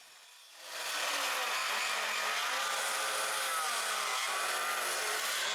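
Power saw cutting 2x4 lumber for truss rafters: it builds up over about the first second, then runs steadily through the cut.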